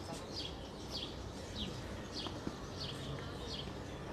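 A small bird calling outdoors: a short, high, falling chirp repeated about twice a second, over a steady low background rumble.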